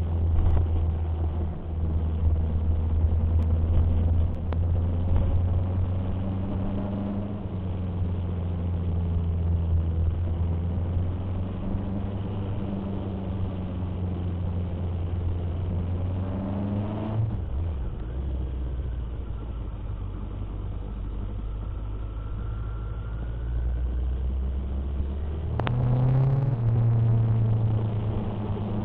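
Motorcycle engine running while riding, with a steady engine note. The note drops suddenly a little over halfway through, then climbs again near the end as the bike accelerates.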